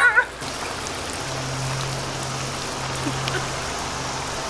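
Water spraying steadily from a backyard splash pad's jets and falling back onto the pad, an even hiss.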